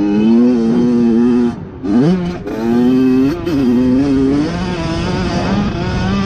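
Dirt bike engine running under throttle. The throttle closes briefly about one and a half seconds in, the engine revs back up in a rising sweep, and it runs steadily at lower revs for the last couple of seconds.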